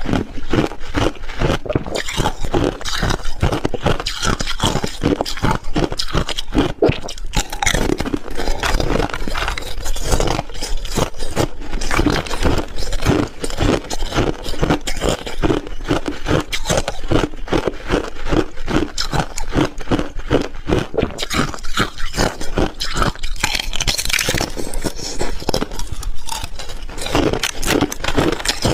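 A person biting and chewing hard ice, a steady run of loud crunches, several a second, close to the microphone.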